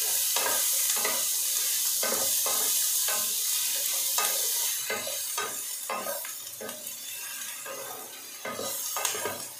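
Chopped onion and tomato sizzling in a frying pan while a wooden spatula stirs and scrapes them, about two strokes a second. The sizzle is strongest for the first five seconds or so, then dies down.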